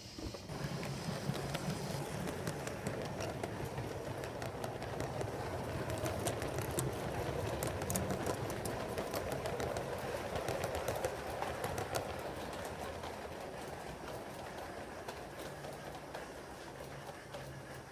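7mm-scale model train running along the track: a rumble of wheels on rail with a low motor hum and scattered small clicks. It grows louder after the start, is loudest mid-way, then fades as it passes.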